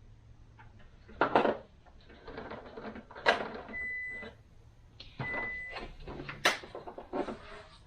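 Bench handling of transmission parts and bearing-kit packaging: several sharp clicks and knocks of parts being set down, with rustling in between and two brief thin squeaks.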